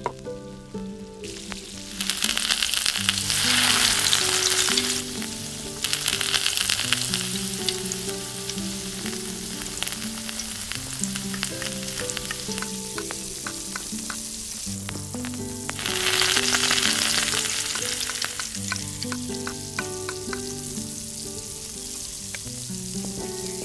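Chopped onion, green bell pepper and tomato sizzling in hot oil in a tiny steel pot. The sizzle swells loudly a few times as more goes in, and a small spoon clicks and scrapes against the pot as the vegetables are stirred. Light background music with a melody plays underneath.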